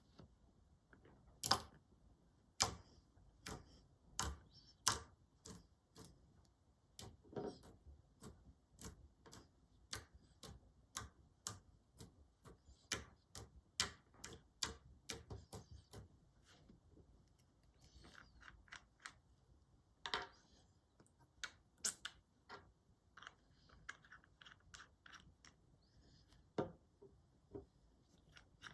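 Clear slime being squeezed and folded by hand, giving off sharp clicks and pops about once or twice a second, with short runs of softer crackling in the second half.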